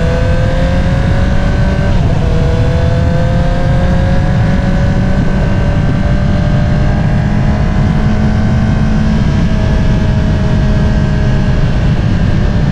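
Honda CBR650R inline-four through an Akrapovič single-outlet exhaust, under way. The revs rise for about two seconds, drop sharply at an upshift, then climb slowly and ease off a little near the end.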